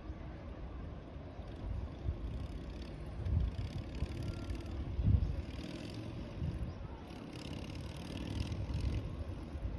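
Distant city traffic hum, steady and low, with gusts of wind buffeting the microphone that swell loudest about three and five seconds in.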